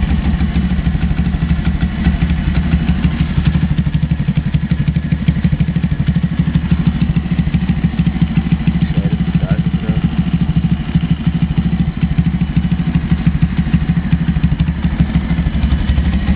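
125cc Lifan pit bike engine, a single-cylinder four-stroke, idling steadily at an even speed.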